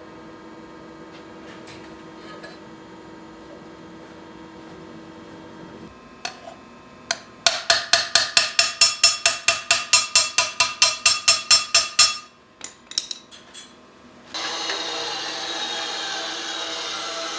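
A hammer striking metal in a fast, even run of about twenty ringing blows, as in shaping muffler or exhaust pipe steel, with a few single knocks after. Near the end a steady, loud rushing whir of a power tool starts.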